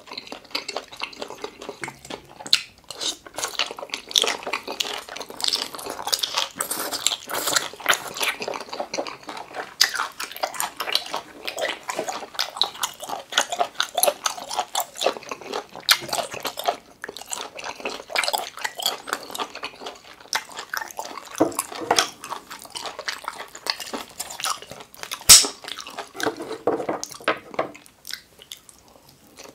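Close-up mouth sounds of a person chewing boiled octopus: continuous irregular smacking and clicking chews. There is one sharp, louder click near the end.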